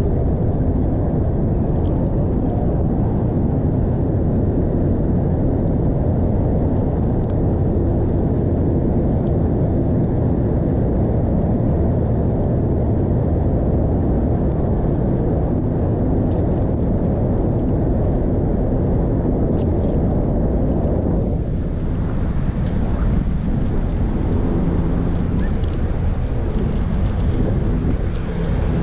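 Wind rumbling over a chest-mounted GoPro's microphone while cycling, with street noise underneath; the rumble eases about two-thirds of the way through.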